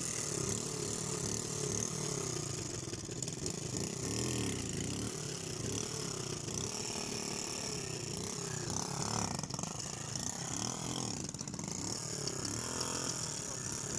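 ATV engine running and revving unevenly, its pitch rising and falling, as a quad tries to work itself free from deep snow.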